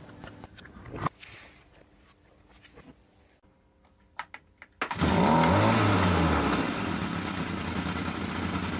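Stihl FS 38 trimmer's small two-stroke engine, silent except for a few faint clicks, comes to life about five seconds in. It revs up and back down, then keeps running steadily, now running after its carburetor was cleaned.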